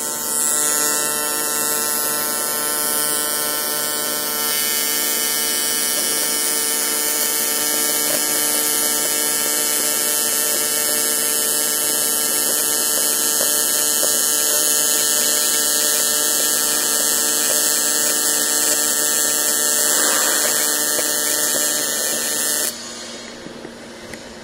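Welding arc on 1.5 mm A5052 aluminium sheet, buzzing steadily with a hiss as a tank seam is welded airtight. It cuts off suddenly near the end.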